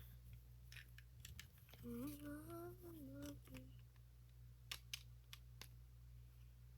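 Faint clicks and taps of plastic Lego pieces being handled and snapped together. A short hummed tune runs from about two seconds in to about three and a half seconds in.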